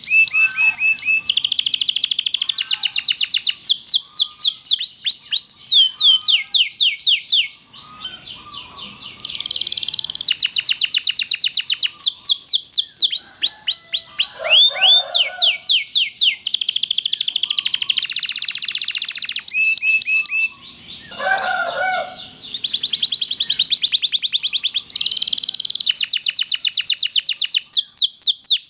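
Domestic canary singing long rolling trills of rapidly repeated high notes mixed with quick falling sweeps, nearly without pause. The song briefly drops away about a quarter of the way in and again about three-quarters of the way through.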